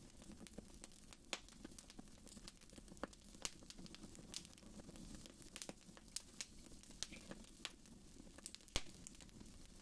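Wood fire in a fireplace crackling quietly: irregular sharp pops and snaps, a few a second, over a faint low rush of flame, with one louder snap near the end.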